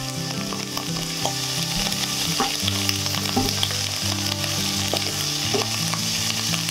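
Cubes of konnyaku stir-frying in sesame oil in a frying pan: a steady sizzle studded with frequent sharp crackling pops (bachi-bachi) as the water is driven out of the konnyaku, while a spatula turns them. This crackle is the thunder-like noise that gives kaminari (thunder) konnyaku its name.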